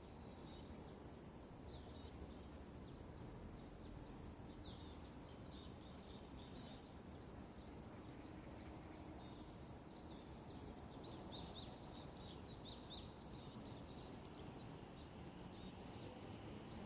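Faint morning birdsong: scattered short high chirps over a steady background hiss, thickening into a quick run of rapid chirps a little past the middle.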